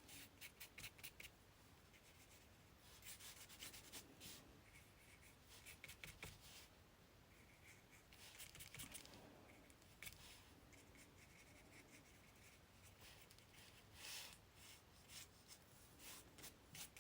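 Faint, quick scratchy strokes of a paintbrush on paper, in several short runs with pauses between.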